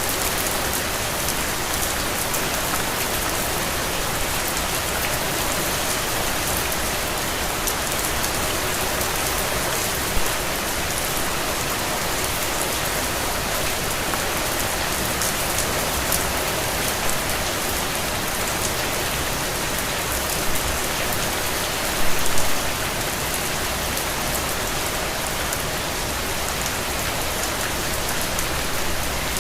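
Steady rain falling and pattering on surfaces, a dense even hiss full of fine drop ticks, with a few louder splashes or drips, the biggest about two-thirds of the way through.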